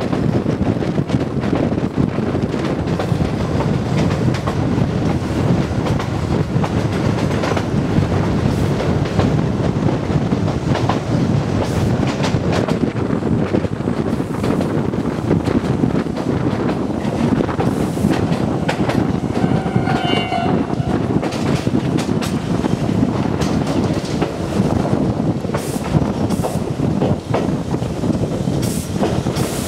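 Kōnan Railway Ōwani Line electric train (ex-Tokyu 7000 series) running at speed, heard through an open window: a steady rumble with wheels clattering over the rail joints. About twenty seconds in, a short high horn note sounds for a second or so.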